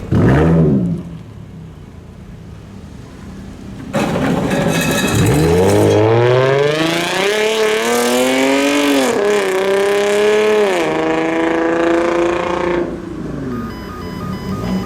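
A car with a loud exhaust gives a quick blip of the throttle, then about four seconds in accelerates hard. The engine note climbs steadily, drops back twice as it shifts up, and holds before fading away.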